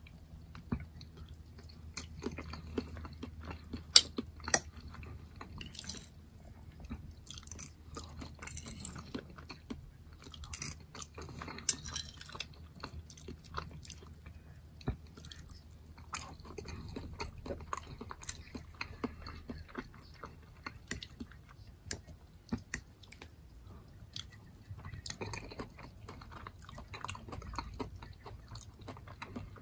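Close-miked chewing of soft food, with wet mouth sounds and now and then a sharp click of a metal fork against a ceramic plate.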